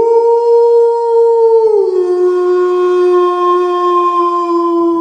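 Wolf howling: one long, steady call that slides down in pitch about two seconds in and holds at the lower note.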